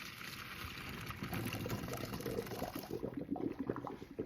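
A pot of cooked macaroni and its hot water being poured into a strainer, the water splashing and rushing into the sink for about three seconds, followed by a few light knocks and drips.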